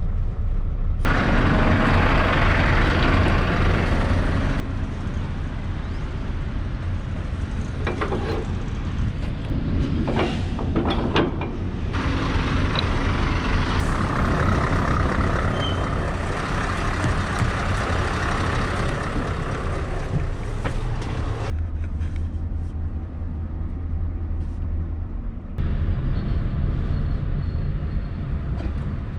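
Heavy diesel truck engine idling steadily, with stretches of hissing noise and a cluster of sharp knocks about eight to eleven seconds in.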